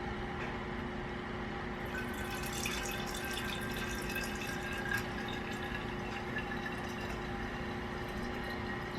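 Carbonated soda making liquid sounds, with many small fizzing crackles from about two seconds in, over a steady background hum.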